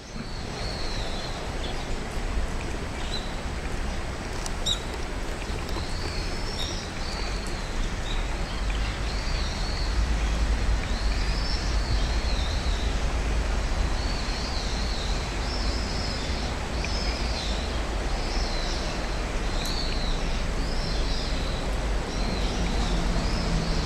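Short, high chirping bird calls repeated throughout, over a steady rush of flowing river water and a low rumble of road traffic that grows louder partway through.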